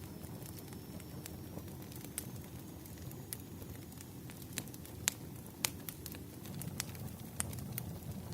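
Wood fire burning: a steady low rumble of flames with sharp, irregular crackles and pops, the loudest about two-thirds of the way in.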